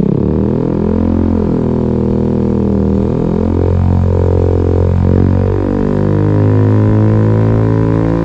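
Italjet Dragster 125 scooter's two-stroke engine running through an Akrapovič slip-on muffler with its baffle removed: a loud, deep drone whose pitch keeps shifting.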